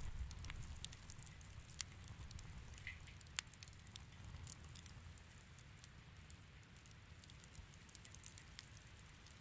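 Wood fire crackling faintly in a fireplace: scattered small pops, with a couple of sharper snaps about two and three and a half seconds in, over a low steady rumble.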